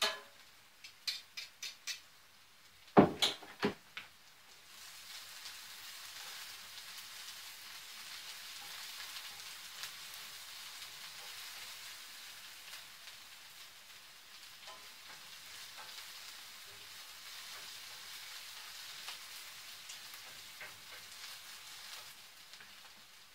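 Onion, ginger and garlic frying in oil and butter in a cast iron skillet: a steady sizzle that sets in about four seconds in. Before it, a handheld garlic press clicks several times and knocks twice, loudly, against the pan.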